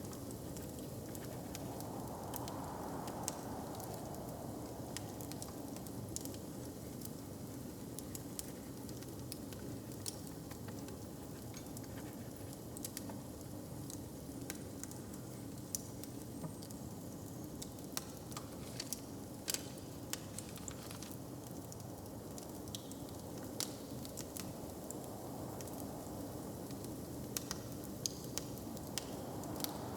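Wood fire burning in a hearth: scattered sharp crackles and pops over a steady low rush of flame.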